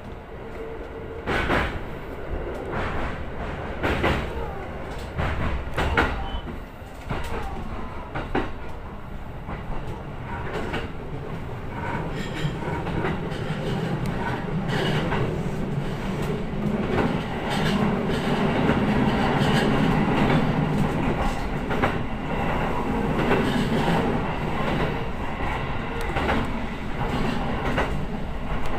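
Electric train running on the Ome Line's mountain track, heard from the front car: the wheels clack sharply over rail joints every second or two. A low running hum swells from about halfway through.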